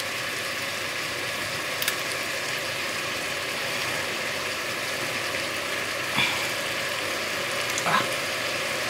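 Minced meat and vegetables frying in a pan with a steady sizzle, broken by a few light clicks and knocks: one about two seconds in and two near the end.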